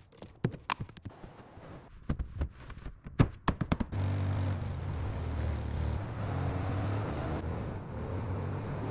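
A run of sharp clicks and knocks, then about four seconds in a car engine sets in running steadily with a low, deep note.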